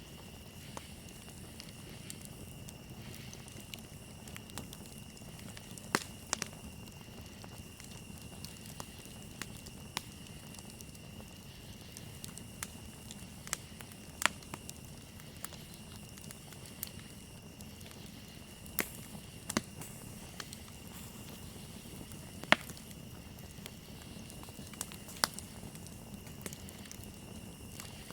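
Campfire crackling, with scattered sharp pops from the burning wood, the loudest a few seconds apart. Under it runs a steady high trill of crickets.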